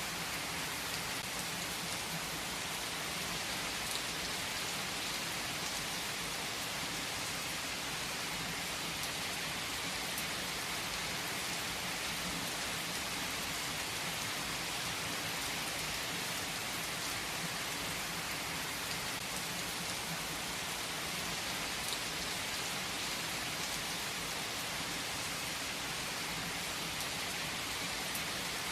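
Steady rain falling, an even unbroken noise with no thunder clap standing out.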